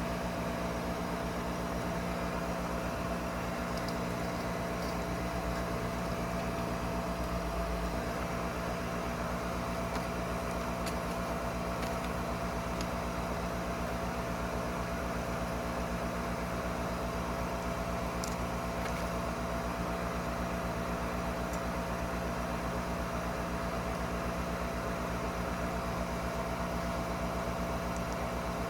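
Gas furnace's draft inducer (flue) motor running steadily, a constant hum with a thin whine, pulling draft on the pressure switch, which the technician suspects is faulty.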